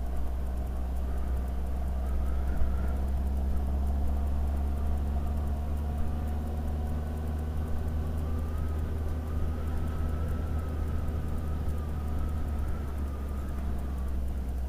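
Honda Hornet 900 motorcycle running steadily on the move, its engine note held at an even pitch with only slight wavering.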